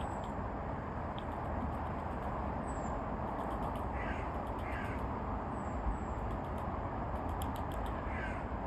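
Harsh, rasping bird calls, a pair about halfway through and another near the end, with faint thin high-pitched calls of small birds, over a steady background hiss.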